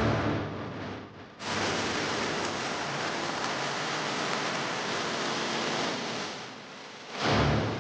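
Steady rushing noise that dips briefly about a second in, then runs evenly, easing off near the end with a short louder surge.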